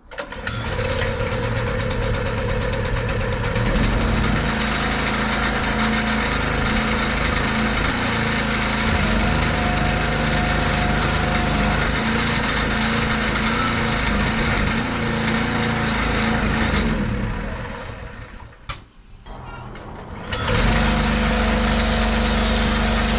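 Pressure washer running steadily with a low motor hum and the hiss of spray. It dies away about eighteen seconds in and starts up again about two seconds later.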